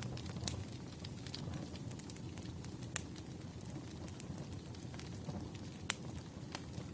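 Wood fire crackling: a steady low rumble of burning logs with scattered sharp pops, three of them standing out.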